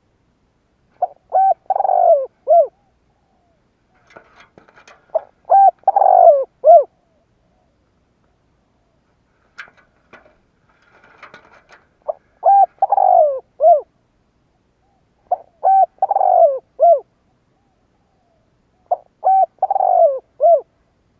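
Spotted dove cooing: five phrases a few seconds apart, each a few short coos around a longer, falling coo.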